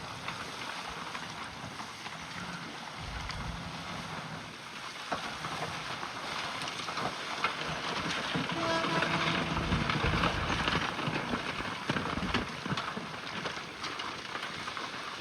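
Bulldozer working: engine running under a dense clatter of scraping and knocking, louder in the middle.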